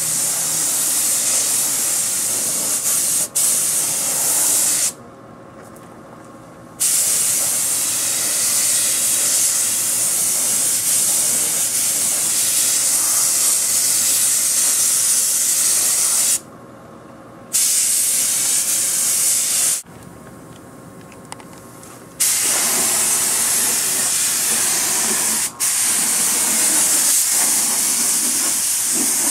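Paint spraying primer onto the truck body: a loud, steady hiss in long passes that cut off abruptly for short pauses several times as the spray is stopped and restarted.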